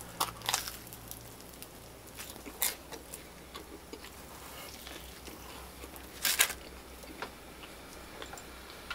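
Close-up chewing of a bite of pizza crust: scattered small mouth clicks and crunches, with a few louder sharp sounds, the loudest about six seconds in.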